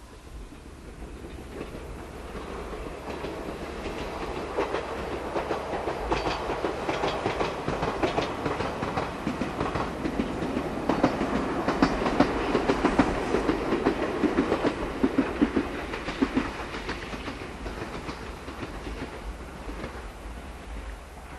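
Two-car Ichibata Electric Railway electric train passing, its wheels clicking over the rail joints. The sound builds to a peak about halfway through, with a run of sharp clacks, then fades as the train moves away.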